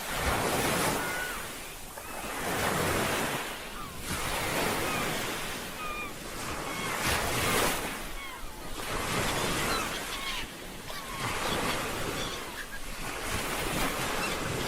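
Ocean waves washing onto a shore in repeated swells every two to three seconds, with wind. Short high chirps come through over the surf.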